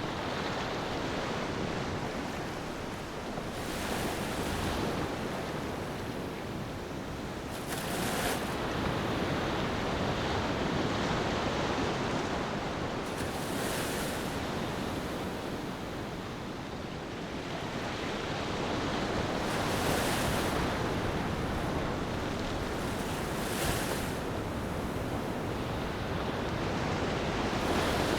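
Ocean waves washing onto a beach. Each wave swells to a hissing break every four to six seconds and then recedes.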